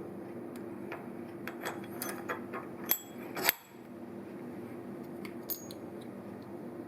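Light metallic clinks and taps of steel tooling being handled as a slitting saw is taken off its arbor to be turned round. The two sharpest clinks come about three and three and a half seconds in, over a steady low hum.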